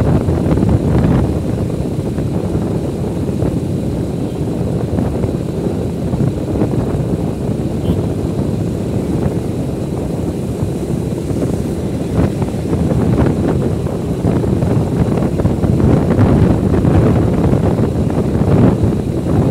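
Wind buffeting the microphone of a moving vehicle, a loud, unsteady low rumble, with the vehicle's running noise mixed in.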